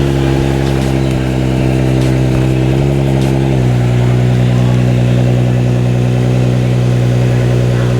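Car engine running close by at steady revs, with a slight rise in revs about three seconds in that drops back half a second later.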